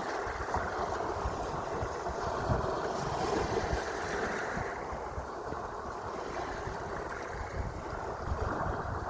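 Sea waves washing steadily, with wind buffeting the microphone in low rumbling gusts.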